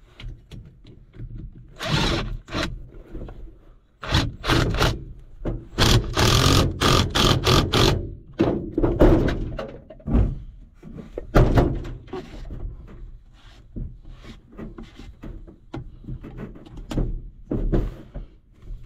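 Irregular thunks, knocks and light scraping as plastic drain-tile fittings and tools are handled and fitted together, with a quick cluster of clattering knocks a few seconds in.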